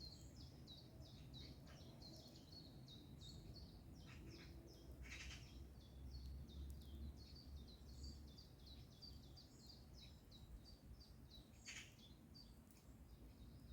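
Faint birdsong: a small songbird sings a steady run of rapid, repeated high notes, broken twice by a short harsh chattering call from a magpie, about five seconds in and near the end, over a low rumble.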